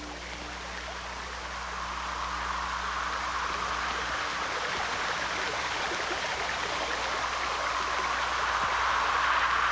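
Rushing water of a stream: a steady hiss of flowing water that slowly grows louder.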